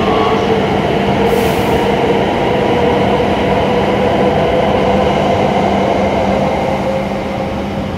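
E7 series Shinkansen train pulling out of the station and passing close by the platform, with loud steady running noise and a steady hum. A brief high hiss comes about a second and a half in. The sound eases slightly near the end as the last car goes by.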